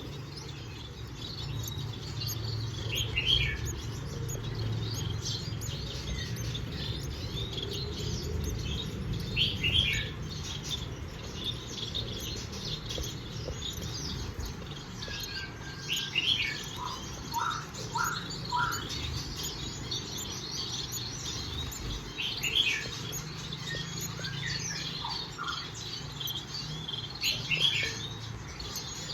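Gouldian finches chirping: many short, high cheeps in quick clusters throughout, with a few lower notes about two-thirds of the way in, over a steady low hum.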